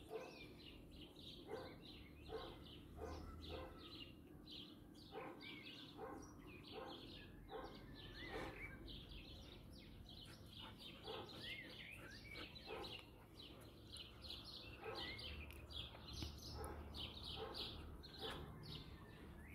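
Small birds chirping: many short, faint calls in quick succession.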